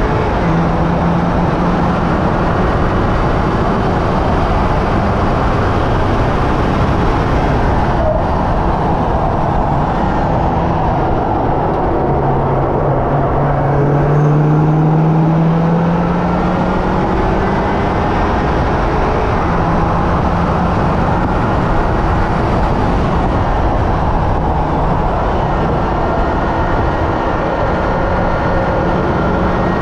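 Hyundai Elantra N's turbocharged 2.0-litre four-cylinder engine driven hard on a race track, over dense wind and road noise. The engine note climbs and falls several times with throttle and gear changes, including one long climb about halfway through.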